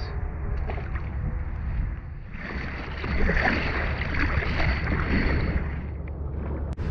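Wind rumbling on the microphone throughout, with water splashing and sloshing from about two seconds in until near the end as a caught fish is released from a kayak. A single sharp click near the end.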